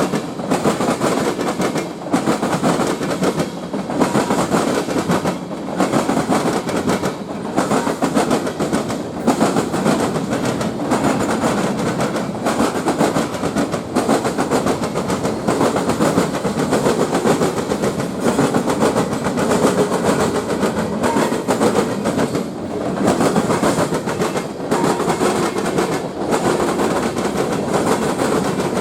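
Train passing close by, railroad cars rolling steadily with wheels clacking over the rail joints in a repeating rhythm.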